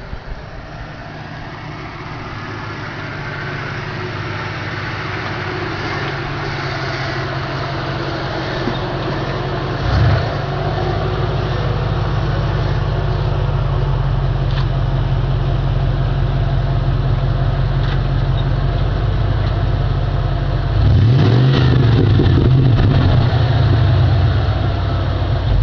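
Car exhaust note, the engine running with a steady low rumble that slowly grows louder. A short blip of the throttle about ten seconds in, and a louder, rougher note from about twenty-one seconds on.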